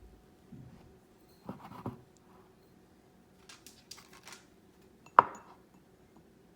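Kitchen utensils handled against dishware: a couple of soft knocks, a few short scrapes, and one sharp clack a little after five seconds in.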